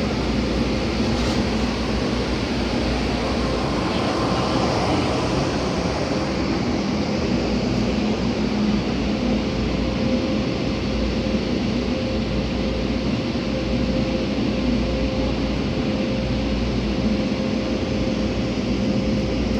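Automatic drive-through car wash machinery running, a loud, steady, even rushing noise with a constant hum under it.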